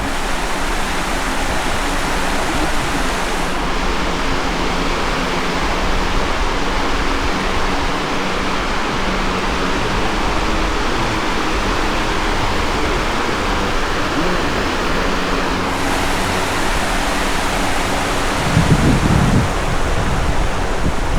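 Ocean surf washing steadily onto the beach, a constant rushing hiss. Wind hits the microphone in a short low rumble near the end.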